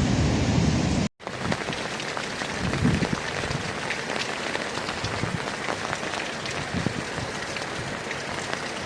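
Wind and surf with a heavy low rumble for about a second, then an abrupt cut to steady heavy rain pattering on hard surfaces, dense with small drop ticks.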